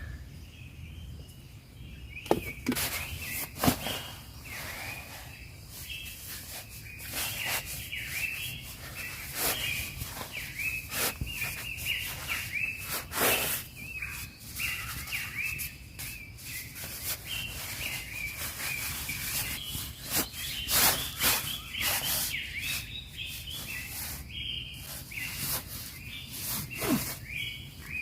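Birds chirping continuously, with frequent irregular close taps and rustles throughout.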